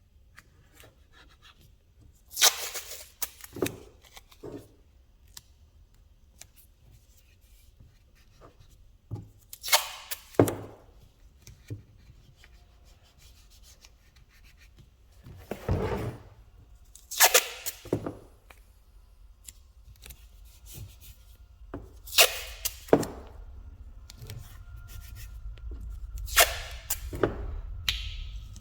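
Short hissing bursts of compressed air from a paint spray gun, about six in all, each lasting under a second, with small handling clicks in between over a steady low hum.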